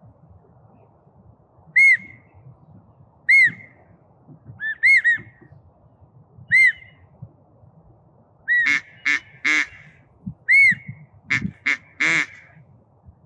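Duck whistle call blown in short, arched whistle notes, singly or in quick pairs, spaced a second or two apart, then a faster run of rougher, buzzier notes near the end: calling to draw ducks in.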